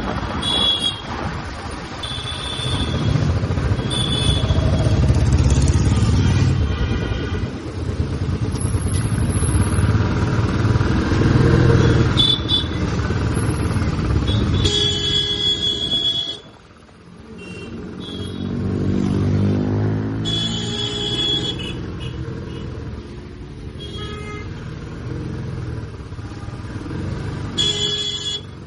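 Royal Enfield Classic 350 single-cylinder engine thumping along under way, with some wind noise. Short horn honks sound several times. About halfway through the engine briefly drops off, then picks up again with a rising pitch.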